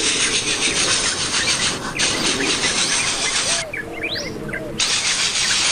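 Small birds chirping, with many short rising chirps over a dense, steady insect hiss. About four seconds in the hiss drops out for a second, leaving the chirps clear.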